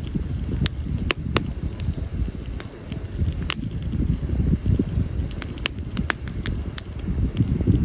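Wood fire burning in a campfire, crackling and popping at irregular intervals, about a dozen sharp pops over a steady low rumble.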